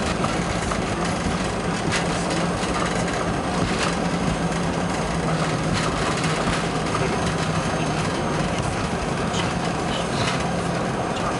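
Steady roar of a Boeing 737 heard inside the cabin near the front during landing, with a low hum underneath and scattered short knocks and rattles.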